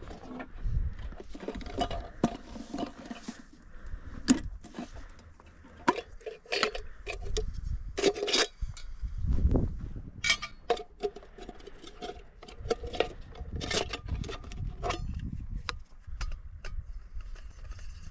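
Irregular clinks, clicks and knocks of hard objects being handled, over an on-and-off low rumble.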